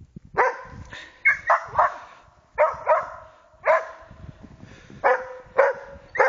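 West Siberian Laika hunting dogs barking at a marten: about ten sharp, irregularly spaced barks, several in quick succession.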